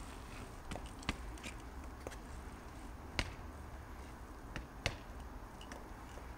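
A minibike's wheels knocking down onto the ground as the front and back ends are lifted and dropped: a few sharp knocks, the loudest about one, three and five seconds in.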